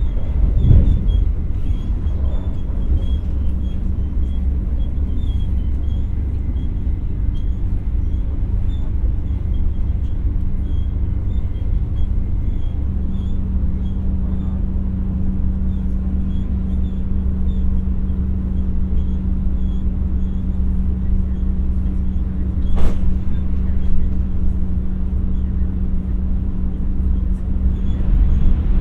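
Running sound of an X60 commuter electric multiple unit heard from inside the train: a steady low rumble with a steady hum that grows stronger about halfway through. A thump comes about a second in and a sharp knock near the end.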